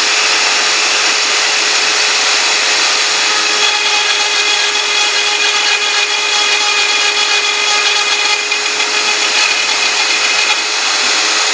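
CNC router spindle running at steady speed while milling Thai letters, a continuous cutting noise over a steady whine.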